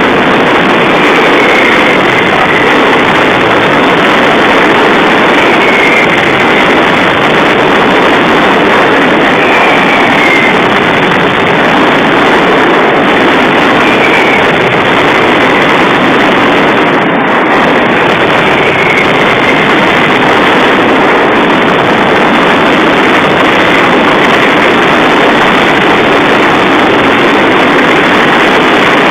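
Daytime fireworks going off in a dense, continuous barrage: a loud, steady roar of firecracker reports with no single bang standing out. A faint, short falling whistle comes through every few seconds.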